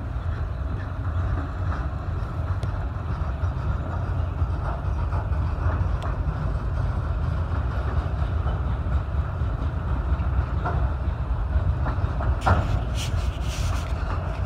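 Freight train of autorack cars rolling past at close range: a steady low rumble of steel wheels on rail with scattered clicks, and a cluster of sharper clanks and rattles near the end.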